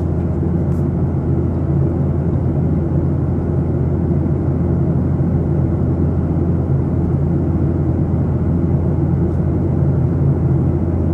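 Steady low rumble of a vehicle in motion, an even drone with no breaks or changes in pitch.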